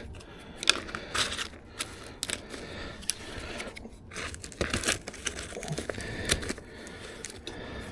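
Irregular clicks and crinkling as plastic spacers are fitted under steel reinforcing mesh lying on a polythene membrane.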